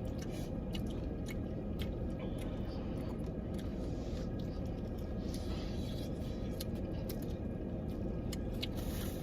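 Close-miked chewing and biting on crispy fried chicken wings: scattered small crunches and mouth clicks over a steady low background hum.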